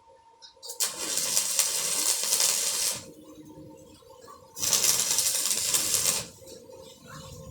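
Electric arc welding crackling in two runs of about two seconds each, the arc struck just under a second in and again about halfway: short welds or tacks.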